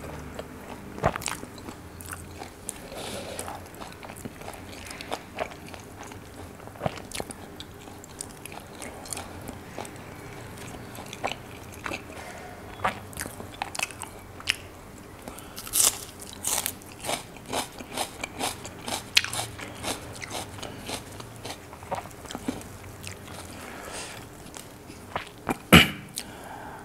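Close-miked chewing of butter kulcha flatbread with chicken curry: wet mouth smacks and many short, sharp clicks, thickest through the middle, with one louder click about a second before the end.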